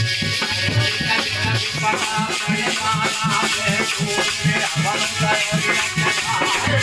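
Instrumental Alha folk music: a fast, steady drum beat of about three strokes a second with jingling percussion over it.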